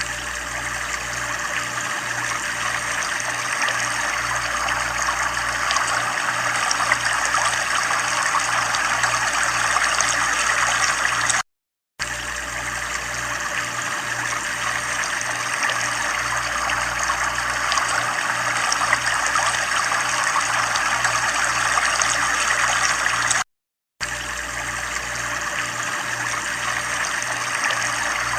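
Running water trickling and splashing steadily, with a low pulsing hum underneath. The sound cuts out completely for a fraction of a second about every twelve seconds, where the looped recording restarts.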